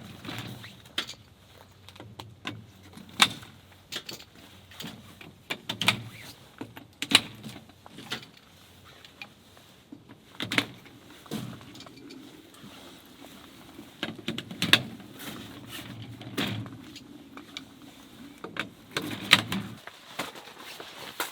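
Irregular knocks, clicks and clatter of camping gear being handled during camp setup, over a low steady hum that stops near the end.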